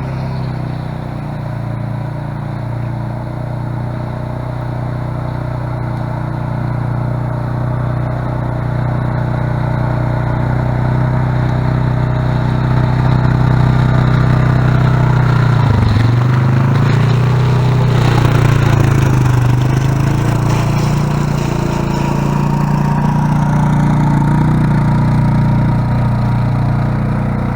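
An engine running steadily and slowly growing louder, its pitch dipping briefly about halfway through and then recovering.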